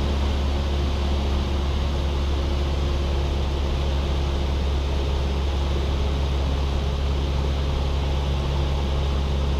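Cessna 172 Skyhawk's engine and propeller running steadily in flight, heard from inside the cabin as an even low drone.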